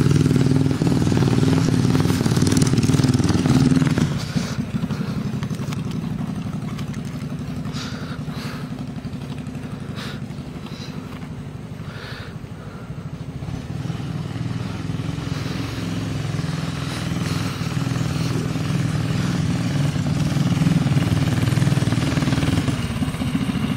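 Mini bike's small single-cylinder Briggs & Stratton engine running. It is loud at first, fades after about four seconds, and grows louder again in the second half.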